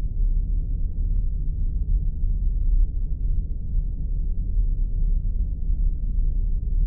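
Spaceship sound effect: a steady, deep rumble with its weight in the low bass and nothing higher, unchanging throughout.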